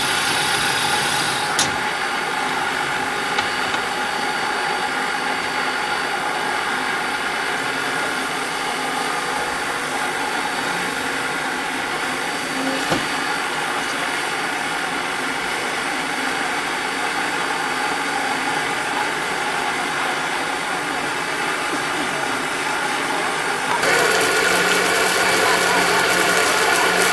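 A standing narrow-gauge steam locomotive, hissing and humming steadily. A brighter, louder hiss cuts in sharply near the end.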